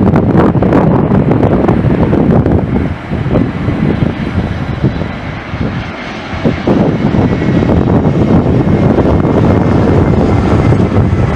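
Jet airliner's engines rumbling loudly as it passes on its landing, with a faint high whine in the second half.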